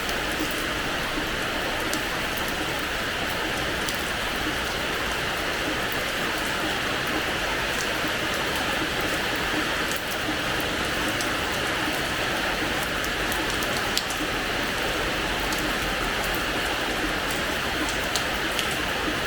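Steady rain falling on a hard terrace floor, an even hiss with scattered sharp drop ticks.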